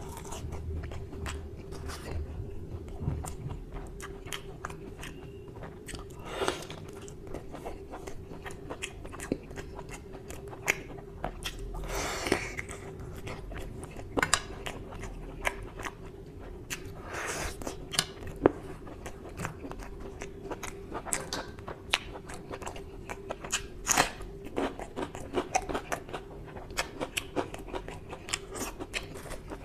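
Close-up eating sounds of a person eating mutton curry and puri with his fingers: wet chewing with many small lip smacks and clicks, and now and then a longer, louder bite. Finger licking near the end.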